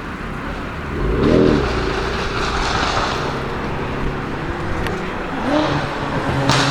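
BMW M5 F10's twin-turbo V8, fitted with catless downpipes and an M Performance exhaust, idling and blipped in two short revs, about a second in and again near the end.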